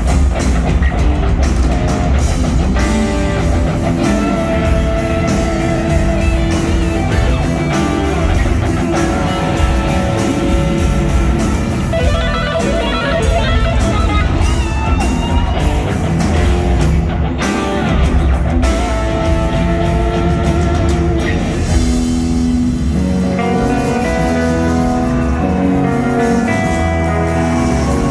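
Rock band playing live: electric guitar lines over bass and drum kit, steady and loud throughout.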